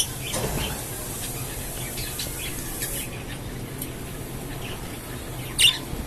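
Budgerigars chirping and chattering in short, scattered calls, with one loud, sharp call about five and a half seconds in.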